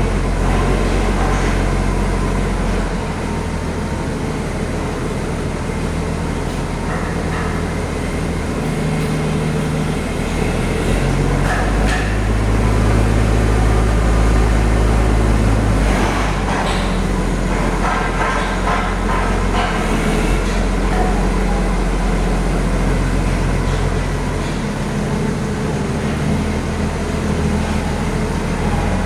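Heavy vehicle engine running, its low pitch stepping up and down several times as the engine speed changes.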